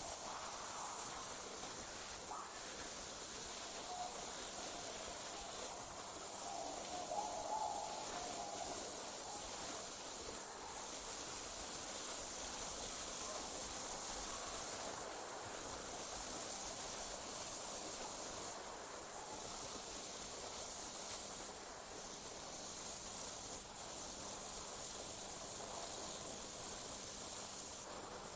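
Night insects trilling: a continuous, very high-pitched trill that breaks off briefly every few seconds and starts again.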